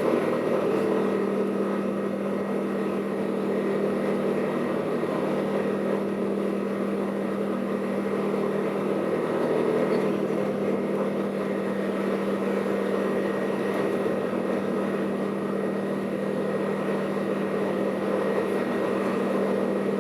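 Steady cabin noise inside an Airbus A380: the jet engines and airflow make an even rumble with a constant hum, holding level throughout.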